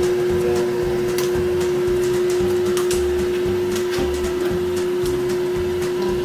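A steady machine hum with one constant tone and a low pulse repeating about three times every two seconds, with scattered light clicks.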